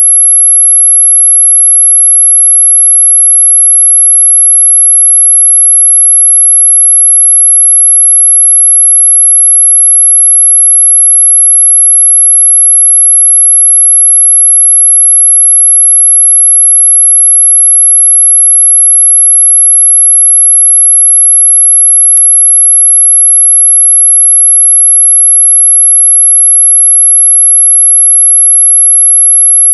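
A single steady, very high-pitched electronic tone, held without a break at one pitch. It is a mosquito-repellent sound, sold as ultrasonic but well within human hearing.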